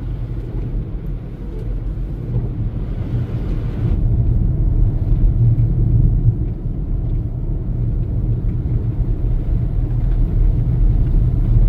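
Steady low rumble of a car driving along a snow-packed highway, heard from inside the cabin; it gets louder about four seconds in.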